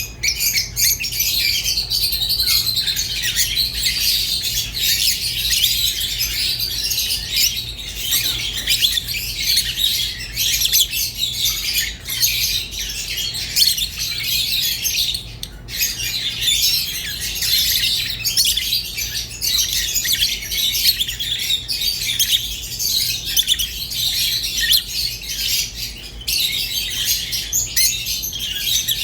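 A group of rosy-faced and Fischer's lovebirds chattering and chirping without a break, a dense run of shrill calls with scattered sharp clicks and squawks.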